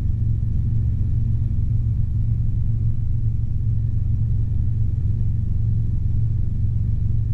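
Robinson R22 helicopter in level cruise, heard from the cockpit: a steady low drone of engine and rotors that holds even throughout.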